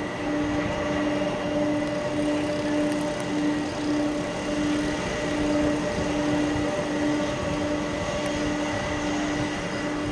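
Boeing 747 jet engines running steadily: a constant rumble with a held hum that pulses about twice a second and fainter higher tones above it.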